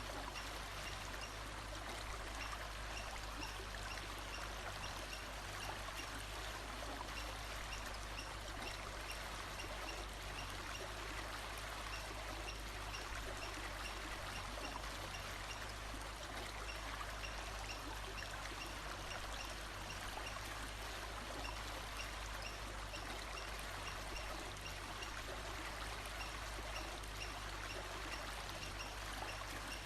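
Steady rushing of a flowing stream, with a faint high chirp repeating at an even pace above it.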